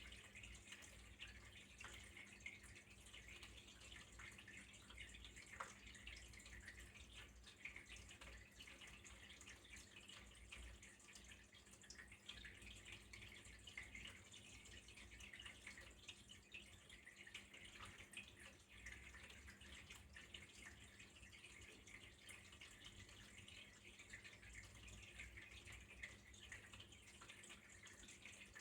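Faint trickle of running water with fine dripping and splashing, even throughout, over a low steady hum.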